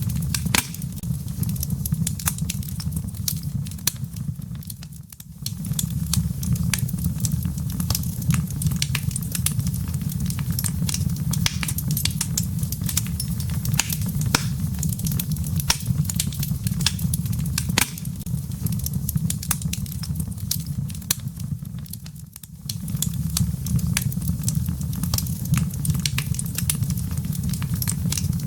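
Wood logs burning in a fireplace, crackling with many sharp snaps and pops over a steady low rumble. The sound dips briefly twice, about five seconds in and again about twenty-two seconds in.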